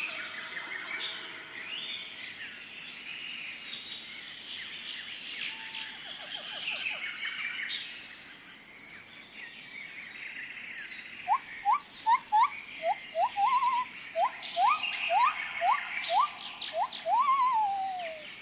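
Outdoor chorus of wild animal calls: a busy mass of high chirps. About halfway through, a series of loud, short rising whistled calls starts, about two a second, and the last call slides down in pitch.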